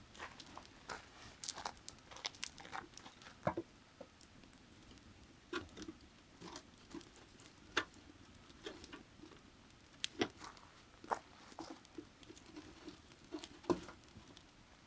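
Firewood burning in an open fire, crackling with irregular sharp pops, a few louder snaps standing out.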